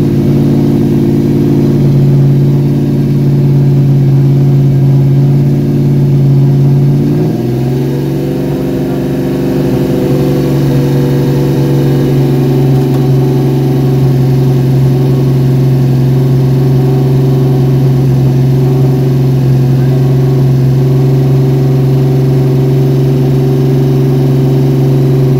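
Fuel-injected 352-cubic-inch stroker small-block Ford V8 in a 1970 Mustang running steadily. About seven seconds in its speed steps up slightly and then holds.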